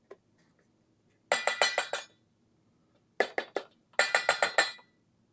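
Rapid clinking of a utensil against a glass container, in three quick runs of strikes: the first about a second in, the next two a little after three and four seconds in.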